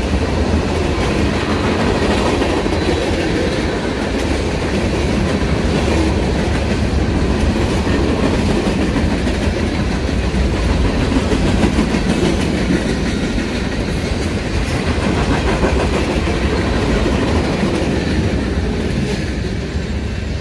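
Freight train cars rolling steadily past: boxcars, a gondola and a centerbeam flatcar, with the wheels rumbling and clacking on the rails. The sound eases off near the end as the last car clears.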